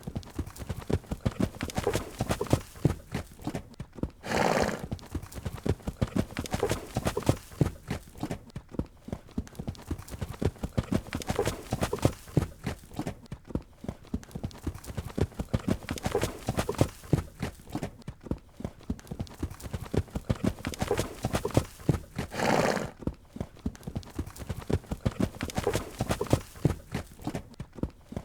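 A horse's hoofbeats on the ground in a fast, continuous run of strikes. Twice, about four seconds in and again later on, the horse gives a short whinny.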